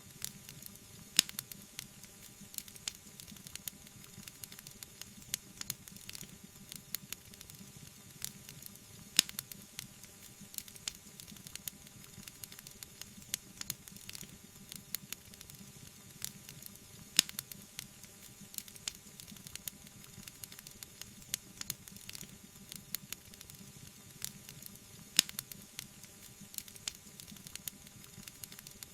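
Wood fire burning in a fireplace, crackling with many small pops over a soft hiss, with a louder sharp pop about every eight seconds.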